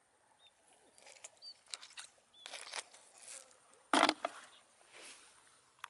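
A string of short scrapes and rustles, the loudest about four seconds in, with a few faint high chirps in the background.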